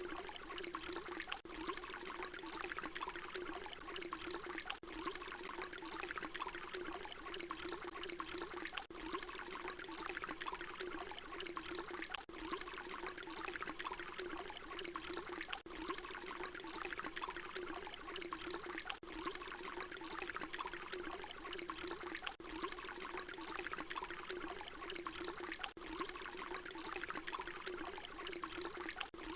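Water pouring in a steady stream, a short recording looped over and over, with a brief dip in the sound about every three and a half seconds where the loop repeats.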